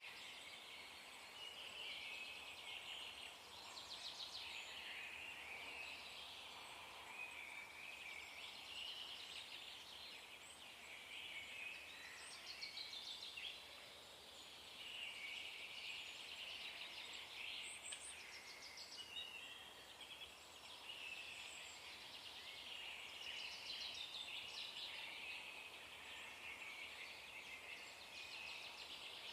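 Faint dawn chorus of birds: many overlapping calls and rapid trilled phrases, repeating every second or two.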